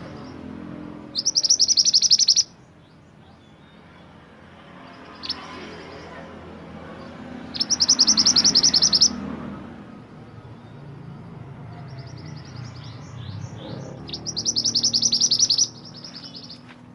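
Mantenan gunung songbird singing: three loud bursts of rapid, high, chattering notes, each about a second and a half long and some six seconds apart, with a few fainter notes between. A low background rumble runs underneath.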